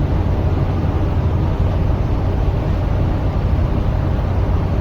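Steady engine and road noise inside the cabin of a car driving along a highway.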